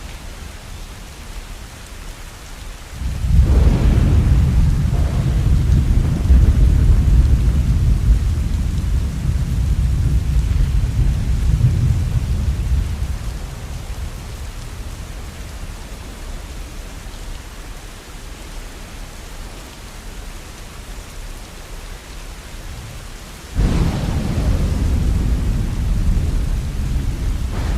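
Steady falling rain with two rolls of thunder: the first breaks about three seconds in and rumbles on for about ten seconds before fading, the second breaks near the end.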